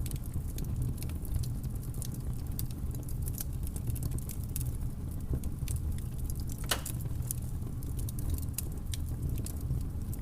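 Wood fire crackling: a steady low rumble of burning with many small irregular snaps and one louder pop about two-thirds of the way through.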